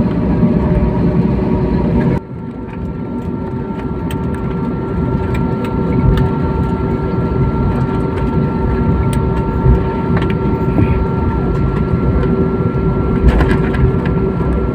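Airliner cabin noise on the ground: a steady rumble and hum from the engines and air systems, with a few steady tones over it. The level drops suddenly about two seconds in, then slowly builds back up.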